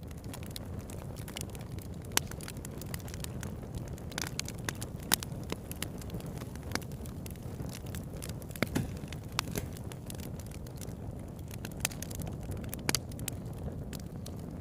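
Campfire burning: a steady low noise of the flames with irregular sharp crackles and pops from the burning wood, a few of them louder than the rest.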